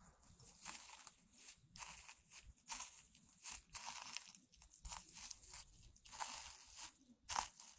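Dried flower tea crunching and crinkling as it is handled close to the microphone: a fairly faint, irregular run of short crisp crackles.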